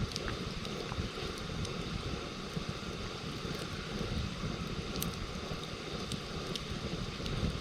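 Campfire burning, with scattered sharp crackles and pops from the wood, over a steady low rumble.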